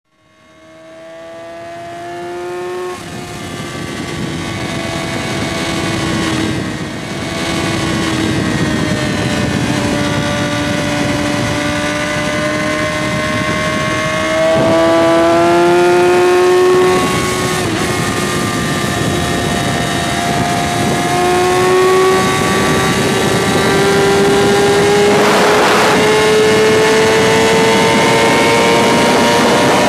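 2006 Yamaha R6's 600 cc inline-four engine running flat out at high revs near its 171 mph top speed, its pitch climbing slowly with a few brief dips, over steady wind rush. The sound fades in over the first few seconds.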